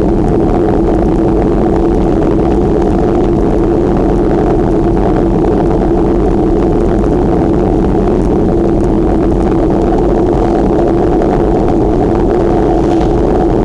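Steady rushing wind and rolling noise picked up on the microphone while riding a bicycle, unchanging throughout.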